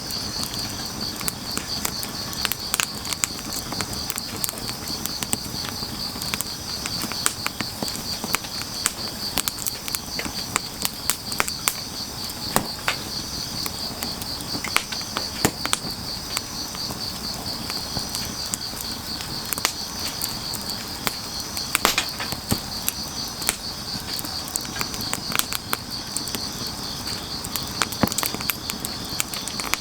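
Wood fire crackling with frequent sharp pops and snaps, over a steady pulsing high-pitched chirring of crickets.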